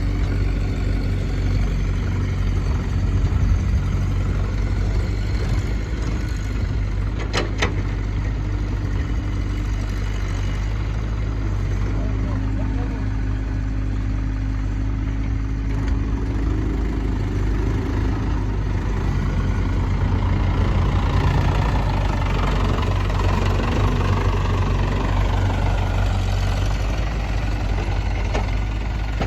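Diesel engines of tractors and a JCB backhoe loader running steadily at low revs, with one sharp click about seven seconds in.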